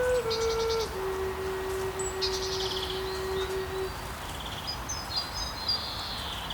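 Songbirds chirping and trilling in several short bursts, over the end of a slow flute phrase: one held low note that steps down twice and fades out about four seconds in.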